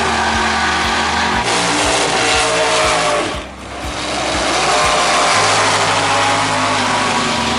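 Drag-racing car engines running loud at the strip, with a brief drop in the noise about three and a half seconds in before it swells back up.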